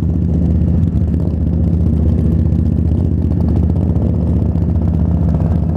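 Motorcycle engine running steadily at an even, low pitch, with no rise or fall in revs.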